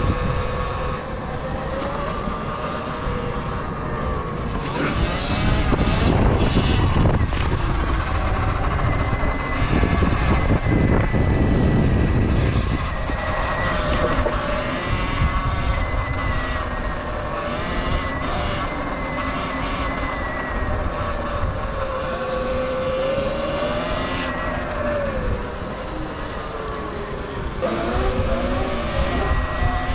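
Electric dirt bike's motor whine, a thin tone that rises and falls in pitch as the bike speeds up and slows down, under heavy wind rumble on the microphone.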